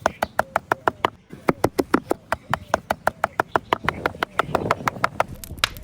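A knife chopping quickly on a cutting board, about six even strokes a second, with a short pause a little over a second in; the strokes stop near the end.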